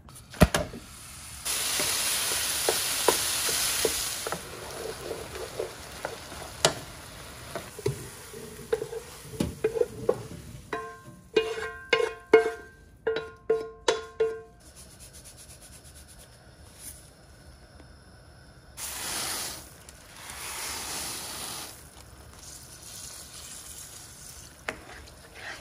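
Ground beef sizzling as it browns in a frying pan, with stirring and scraping from a wooden spoon. About halfway through, a quick run of sharp, ringing metallic knocks as the spoon works the beef in a metal strainer. Near the end, two more bursts of hissing.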